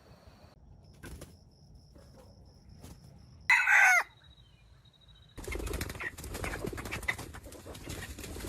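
Wild jungle fowl: a single short, loud call that falls in pitch about three and a half seconds in, then, about two seconds later, a burst of rapid wing flapping that runs on.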